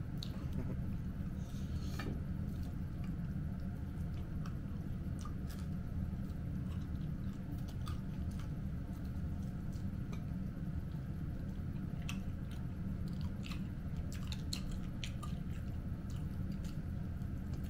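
A person chewing and biting food close to the microphone: irregular wet mouth clicks and smacks scattered throughout, over a steady low background hum.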